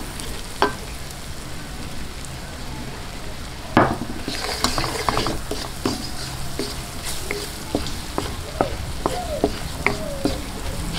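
Jackfruit strips sizzling in melted butter in a nonstick wok while a wooden spoon stirs them, scraping and tapping against the pan. Scattered light knocks from the spoon throughout, the loudest about four seconds in.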